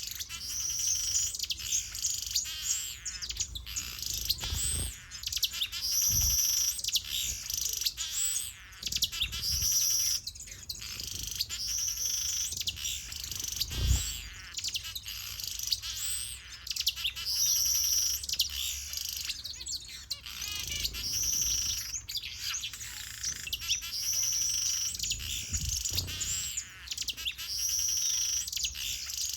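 Small aviary finches and softbills chirping and calling together: a busy, continuous chorus of short high chirps, quick downward-sliding notes and repeated held whistles. A few soft low thumps come through, the most distinct about halfway through.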